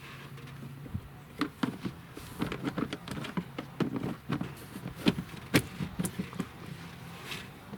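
Plastic interior trim cover being handled and pushed into place: a string of irregular clicks and knocks, the loudest two about five seconds in, over a faint low steady hum.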